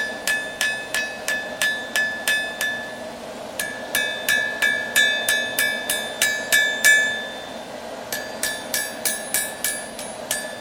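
Hand hammer striking hot steel on an anvil as a railroad spike is forged into a knife blade, about three blows a second, each ringing with a bright metallic tone. The blows come in three runs with short pauses between, over a steady low rush.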